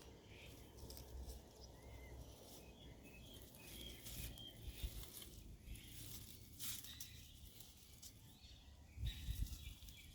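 Quiet outdoor ambience: scattered faint bird chirps over a low rumble that swells about nine seconds in.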